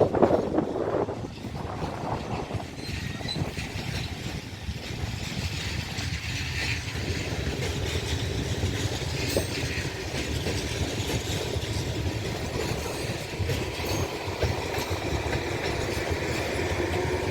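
Train running on the tracks with steady wheel-on-rail noise and scattered clicks from the wheels over the rails, loudest in the first second.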